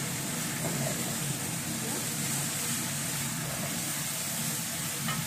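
Chicken pieces sizzling in a pot on a gas burner while being stirred with a wooden spatula: a steady hiss over a steady low hum.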